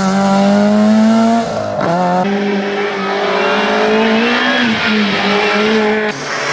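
Rally car engine held at high revs, with a quick lift of the throttle and recovery about two seconds in and again near five seconds. The sound changes abruptly at about two and six seconds.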